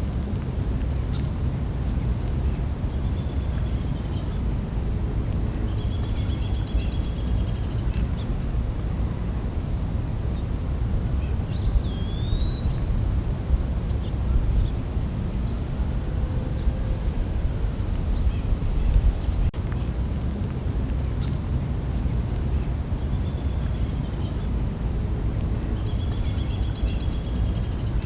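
Night forest ambience: a steady high insect drone, with a cricket chirping in quick regular pulses over it. A few short trilled bird calls come early on and again near the end, and a low rumble of noise runs underneath.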